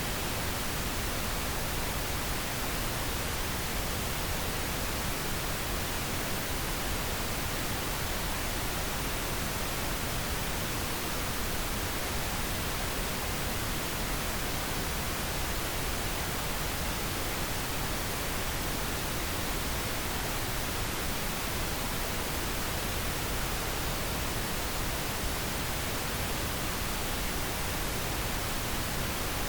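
Steady, unchanging pink noise: an even hiss with no breaks or events.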